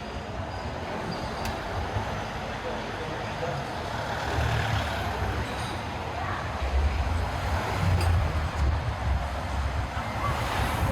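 City street traffic, with the low engine rumble of a heavy vehicle building from about four seconds in and loudest a little past the middle.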